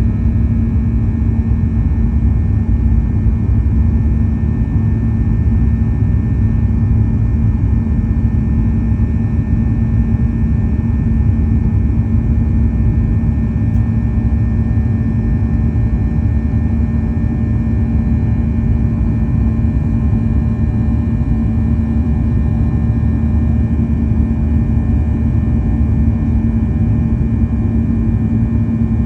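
Steady cabin noise of a Boeing 737-800 under way, heard from inside the passenger cabin: a constant low rumble of the CFM56-7B engines and airflow, with a steady hum underneath that does not change.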